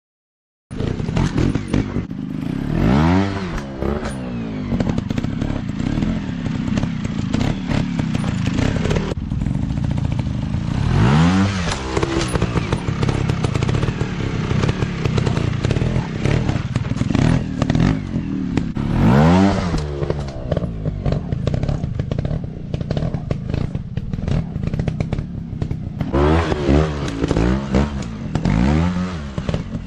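Dirt bike engine running off-road, revving up and dropping back several times, with three quick revs in a row near the end, over clattering and knocking. It begins abruptly just under a second in.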